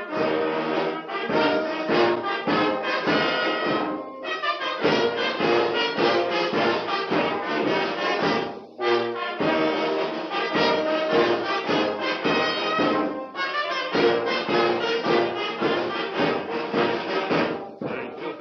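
Instrumental brass-band introduction of a club anthem, with trumpets and trombones playing in strong, regular beats, broken by short pauses about 4, 8.5 and 13.5 seconds in.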